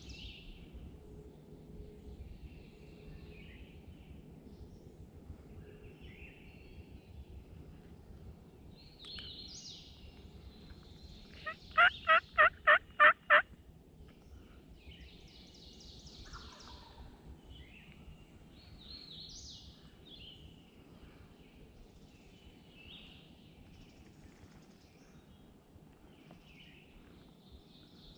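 A run of about seven loud turkey yelps, evenly spaced, lasting about a second and a half. Songbirds chirp faintly throughout.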